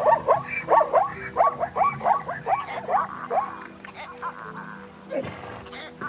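An animal giving a quick run of short rising-and-falling calls, several a second, which stops about three and a half seconds in; soft background music runs underneath.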